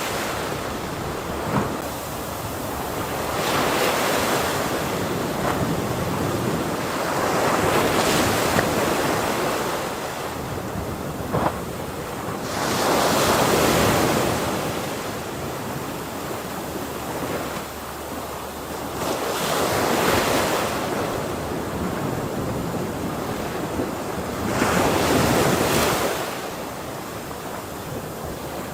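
Ocean waves crashing and washing back, the surf swelling in slow surges about every four to six seconds.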